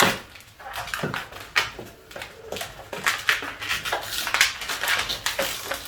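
Latex modelling balloons squeaking and rubbing as they are handled and twisted together, in a run of short, irregular squeaks and rustles.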